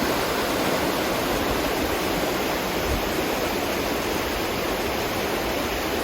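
Small river rapids: white water rushing steadily over rocks in an unbroken whoosh.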